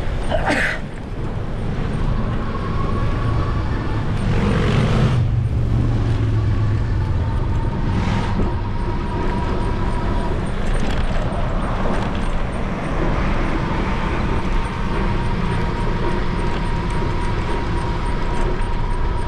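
Road traffic going by during a bike ride, a steady rumble and rush of passing cars, with one vehicle passing more loudly about five seconds in.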